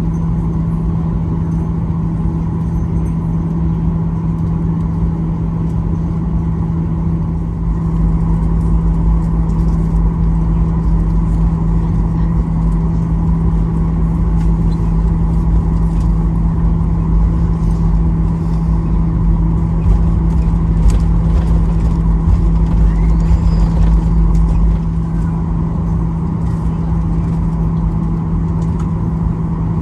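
Steady cabin hum inside a Boeing 737-800 on the ground, with a deeper rumble from about eight seconds in until about twenty-five seconds in.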